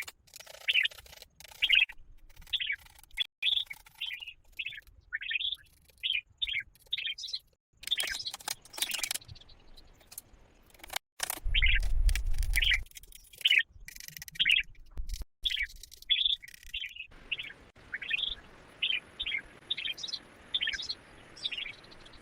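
A bird chirping over and over in short, quick calls. Several sharp clicks or knocks fall about eight and eleven seconds in, and a loud low rumble lasts about a second and a half around the middle.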